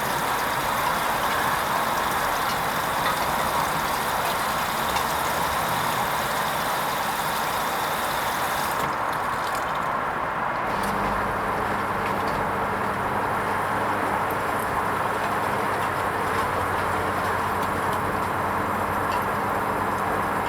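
Hoover Vision HVP16 washing machine running its wool rinse programme, a steady rushing noise. About nine seconds in the hiss thins out, and a couple of seconds later a low steady hum comes in.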